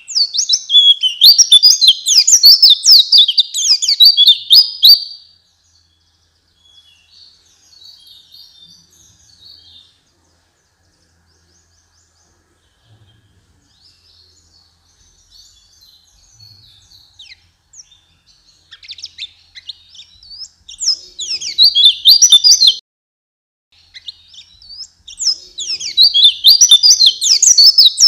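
White-eye (pleci) singing a rapid, high twittering song in loud bursts: one for about the first five seconds, then softer scattered twitters, and loud again about two-thirds of the way in and near the end.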